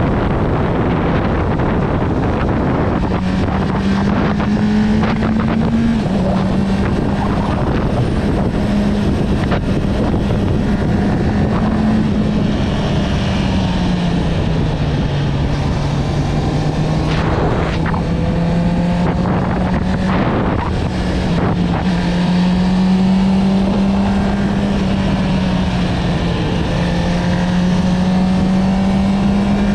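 Honda CB650R's inline-four engine through an Akrapovic exhaust, running at steady cruising revs. The pitch eases down a little around the middle and then climbs back as the throttle is opened again.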